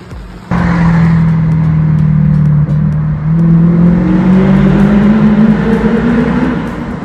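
Car engine pulling under steady acceleration, its note rising slowly, with road and wind noise; it comes in abruptly about half a second in.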